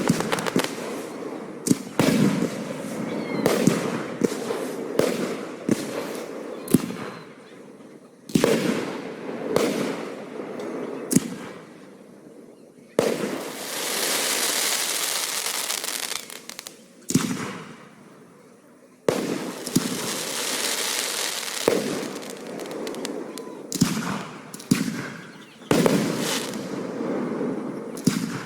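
Aerial fireworks display: a rapid run of sharp bursts and booms, broken by two longer stretches of dense crackling, one about halfway through and another a few seconds later.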